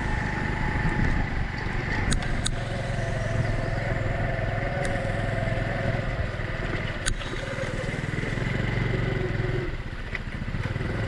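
Honda Cub motorcycle's single-cylinder four-stroke engine running steadily along a rough, bumpy road. A few sharp knocks and rattles come from the bike jolting. The engine eases off briefly near the end.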